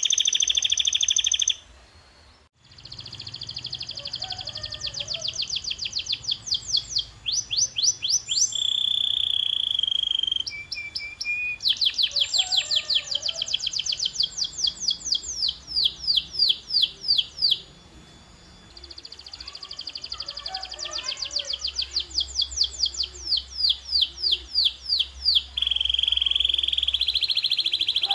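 Domestic canary singing: long tours of fast, rapidly repeated trill notes alternating with held whistled tones, with a brief break about two seconds in.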